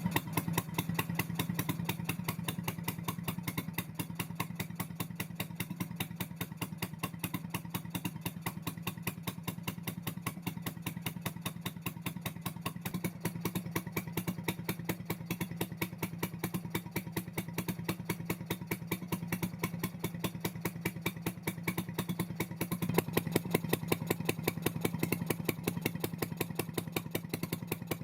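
1955 Stuart Turner P5ME single-cylinder two-stroke marine engine running steadily with an even, rapid firing beat, getting a little louder near the end.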